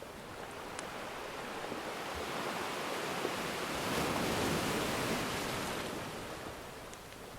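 Ocean surf: a wave swells to its peak about halfway through and then washes back, with a couple of faint fire crackles near the start and end.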